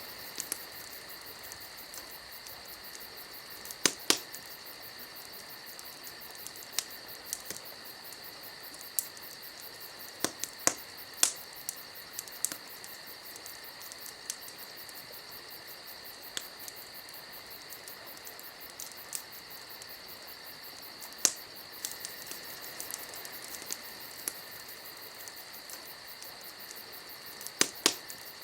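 Campfire burning: sharp, irregular pops and crackles, a dozen or so, the loudest near the start, in the middle and near the end, over a steady high hiss.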